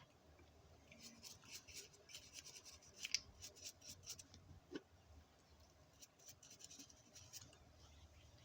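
Faint, irregular light scratching and clicking as small diecast model parts are handled and rubbed by hand.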